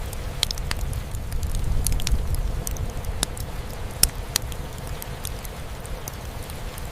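Wood fire crackling in a fireplace, with scattered sharp pops at irregular intervals, the loudest about four seconds in, over a steady low rumble.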